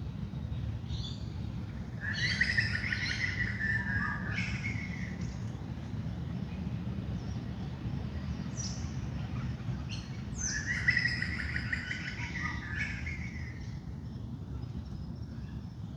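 Wild birds calling and singing in a dawn chorus, two busy bursts of chattering calls about two seconds in and again about ten seconds in, with scattered single chirps between. A steady low rumble runs underneath.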